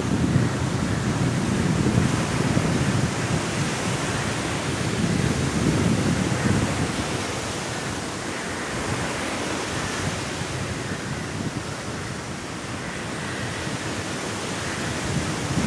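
Sea waves breaking and washing on a shore under strong wind: a steady rushing noise with deeper surges that swell and ease, fading somewhat toward the end.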